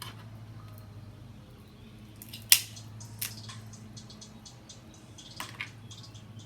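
Steady low hum of a lawnmower running outside, with scattered light clicks and crackles of handling at the table and a sharp click about two and a half seconds in.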